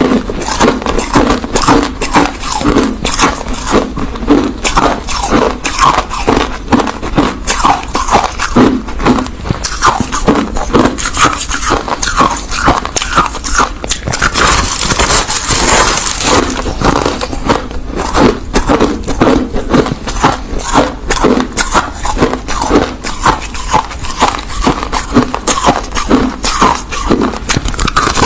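Crushed ice being chewed close to the microphone: rapid, continuous crunching, with a brief harsher, hissier crunch about halfway through.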